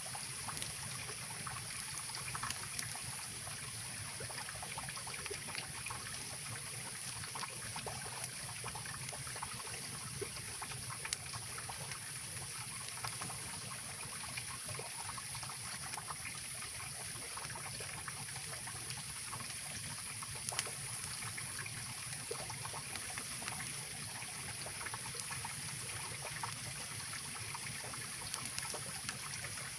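Mountain river rushing steadily, a continuous even water noise, with occasional faint pops and crackles from a wood campfire.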